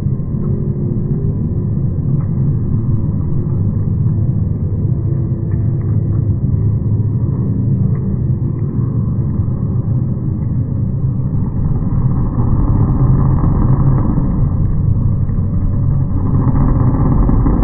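Monster truck engine running with a low, steady drone that grows louder from about twelve seconds in.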